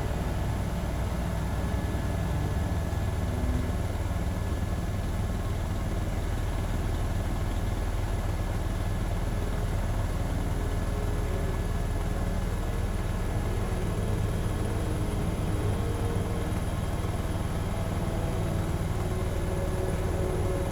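Tour helicopter running in steady flight: an even low drone of rotor and engine, with a thin steady high whine above it.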